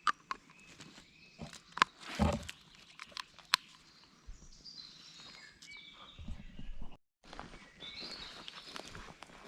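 Woodland birdsong with scattered sharp cracks and clicks, like twigs and leaf litter underfoot, and a heavier thump about two seconds in. The sound cuts out briefly just after seven seconds.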